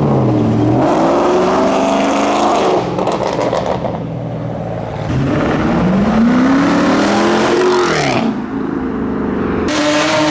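A modified car's engine being revved hard. Its pitch climbs for a couple of seconds, drops away, then climbs again about halfway through and falls near the end.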